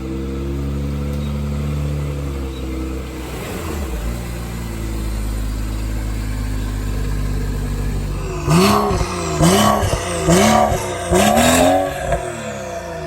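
BMW car engine idling steadily, then revved four times in quick succession, each blip rising and falling in pitch; it sounds mean.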